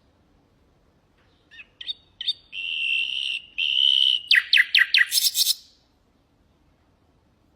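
Common nightingale singing one song phrase: a few short clipped notes, two long steady whistles, a fast run of falling notes, then a short high buzzy trill. The phrase starts about a second and a half in and ends around six seconds.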